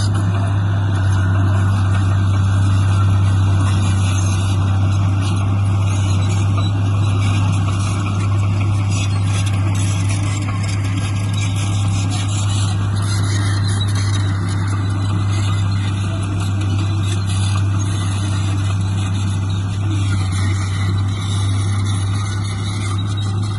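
Heavy diesel machinery engine running steadily, with a strong, constant low hum.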